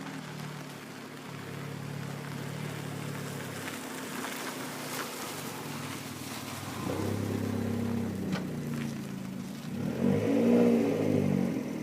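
2013 Fiat 500 Abarth's turbocharged 1.4-litre four-cylinder running through its exhaust, idling, then louder about seven seconds in. Near the end a short rev climbs and falls back, the loudest moment.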